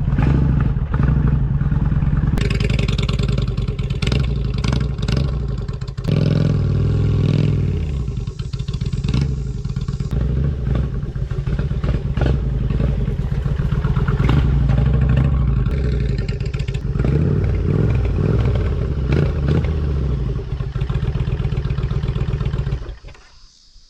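2007 Kawasaki Nomad's V-twin engine running as the heavy cruiser rides a rough dirt trail, its note rising and falling with the throttle over a steady clatter. The sound stops abruptly near the end.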